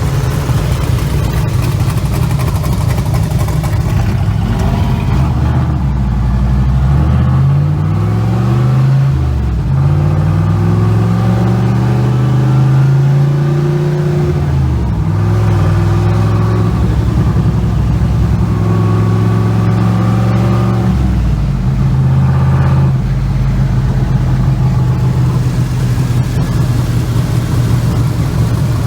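Car engine running loudly, its pitch rising as it revs up about eight seconds in, holding, then dropping back near the middle; it rises again briefly and then runs at a steady speed to the end.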